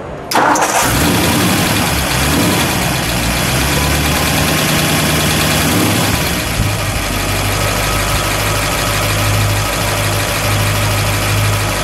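A 1956 Mercury's factory Y-block V8, fed by three carburetors, starting up: it catches suddenly just after the start, runs with its speed rising and falling for several seconds, then settles into a steady idle about halfway through.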